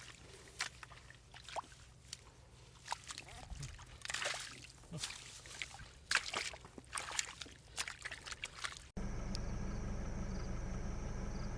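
Shallow water sloshing and splashing, with scattered sharp clicks and knocks. About nine seconds in, it cuts abruptly to a louder steady mechanical drone.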